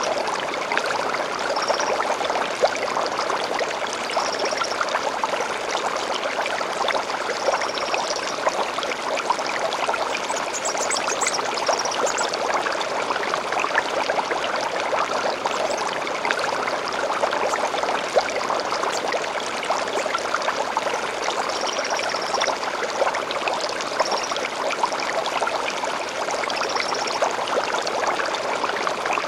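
A small stream flows and babbles steadily. A bird gives short high calls every few seconds, with a brief, higher trill about ten seconds in.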